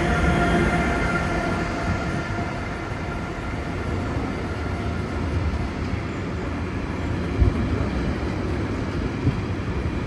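Train running through the station: a steady whine of several tones fades over the first two seconds, leaving a continuous low rumble. There is a single thump about seven and a half seconds in.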